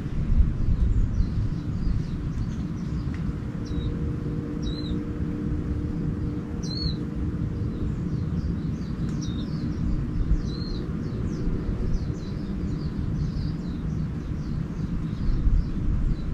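Small birds chirping: short, high hooked calls every second or two, with more faint twittering joining in over the second half. Underneath is a steady low outdoor rumble, with a faint steady drone entering about four seconds in.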